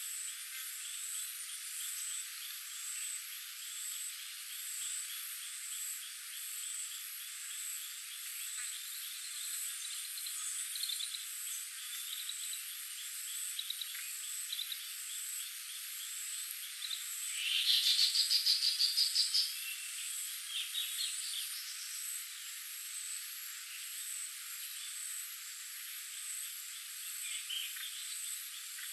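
Chorus of insects and frogs: steady high-pitched pulsing trills with rapid repeated calls, and a louder, fast pulsing trill from about 17 to 19 seconds in.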